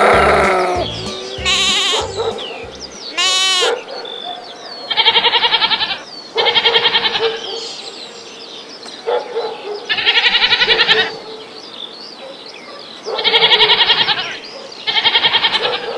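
Goats bleating: a series of loud, quavering bleats about a second long each, several in the second half, with birds chirping faintly in the background.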